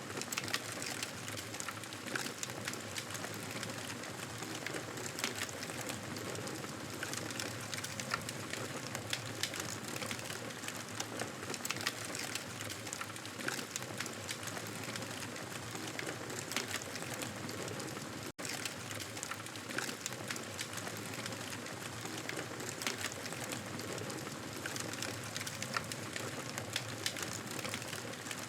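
Wood fire crackling: a steady hiss with frequent small pops and snaps, broken once by a split-second gap about eighteen seconds in.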